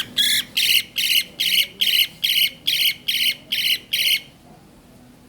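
A bird squawking over and over in a steady run of harsh calls, about three a second, stopping about four seconds in.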